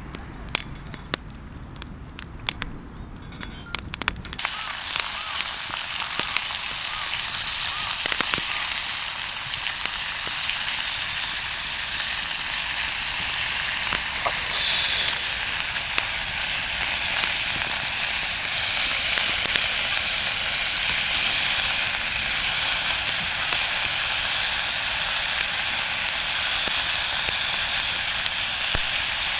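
Crackling and popping of a campfire, then about four seconds in, meat hits a hot grill and starts a steady, loud sizzle with sharp pops that continues.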